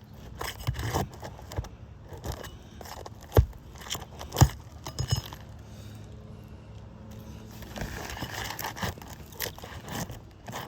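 Asphalt roof shingles being lifted and handled: irregular scraping and crackling, with two sharp snaps about three and a half and four and a half seconds in.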